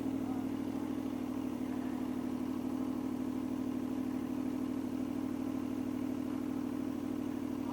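Aprilia Tuono V4 motorcycle's V4 engine idling steadily, with no revs.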